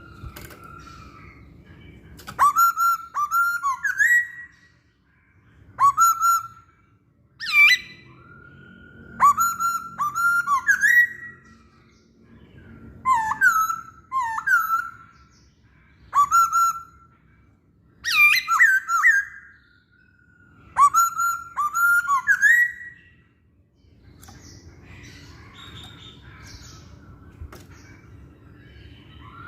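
Masked laughingthrush (poksay Hongkong) singing loud phrases of whistled, sweeping notes, one phrase every two to three seconds. The song stops about 23 seconds in.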